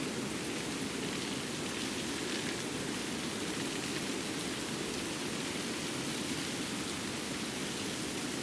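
Steady winter forest ambience: an even rushing noise with faint scattered ticks, holding a constant level throughout.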